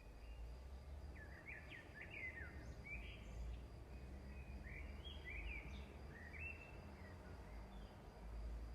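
Faint bird chirps, a quick run of short chirps between about one and seven seconds in, over a low steady hum.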